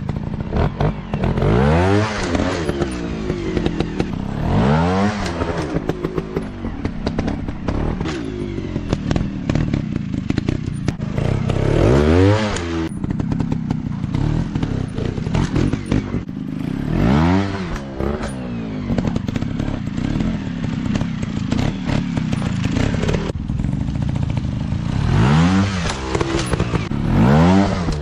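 Off-road motorcycle engine running under riding load, the throttle opened in about six sharp bursts whose pitch rises and falls each time, with scattered knocks between.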